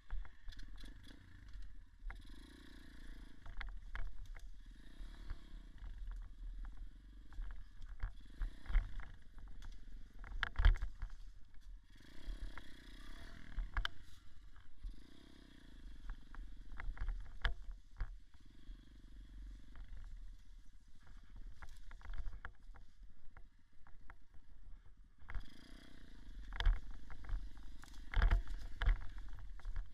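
Irbis dirt bike engine running, revs swelling and easing every second or two, with sharp knocks and rattles from riding over rough ground; the loudest knock comes about ten seconds in, and more cluster near the end.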